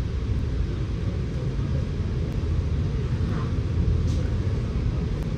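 Scania K94UB single-deck bus running, heard from inside the passenger cabin as a steady low rumble with a low engine hum.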